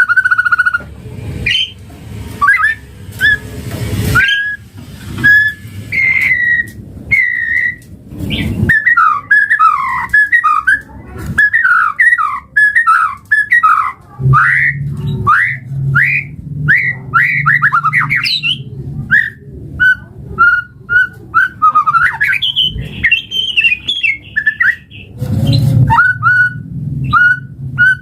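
White-rumped shama (murai batu) singing a long, varied whistled song: clear whistled notes at first, a run of fast rising and falling phrases through the middle, then a string of short repeated whistles near the end, over a low hum.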